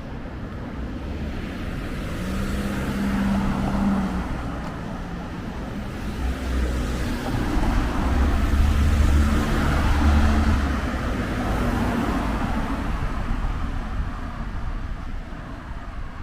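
Street traffic: motor vehicles passing close by, engine hum and tyre noise swelling as one goes by at about three seconds and a louder one around the middle, then fading.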